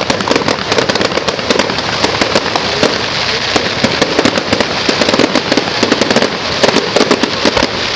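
Fireworks going off in a dense, continuous barrage of sharp crackles and pops, many a second.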